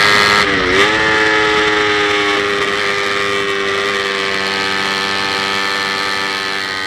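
Kawasaki Ninja 250 race motorcycle engine running at a nearly steady pitch, heard from a camera mounted on the bike. The pitch dips briefly and recovers about half a second in.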